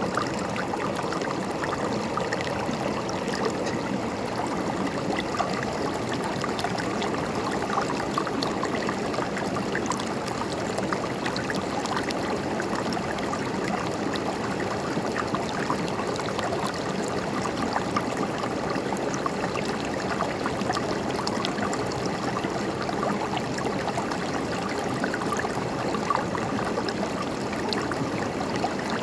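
A river's water flowing and gurgling over rocks, a steady rushing babble with small splashes throughout.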